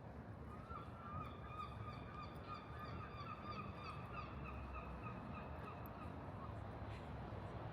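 A bird calling in a quick run of wavering nasal notes for several seconds, over a low city rumble.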